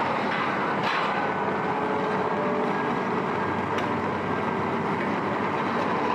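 A heavy vehicle running steadily, with a faint knock about a second in and another near four seconds.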